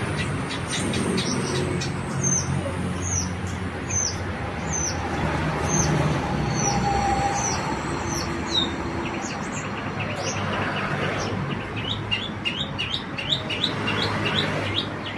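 Small birds chirping: a series of short, high, downward-sweeping calls repeated about twice a second, then a quicker run of lower chirps near the end, over a steady low hum.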